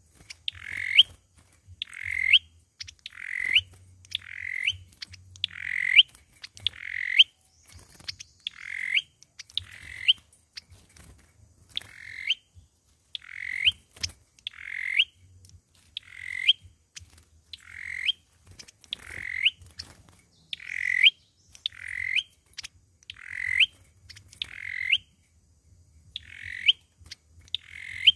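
A sâu dừa bird calling over and over, about one short harsh note every second and a half, each ending in a quick upward sweep. This is the call bird-trappers use as a lure.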